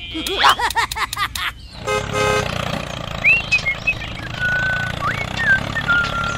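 Springy, bouncing cartoon sound effects with clicks, then a short horn toot about two seconds in. A steady engine rumble follows for the toy tractor, with a few short whistled chirps over it.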